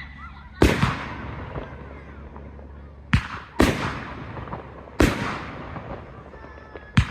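Fireworks bursting overhead: five loud bangs spread across the seconds, the first with a quick second crack right after it, each one tailing off in a trailing smear of sound.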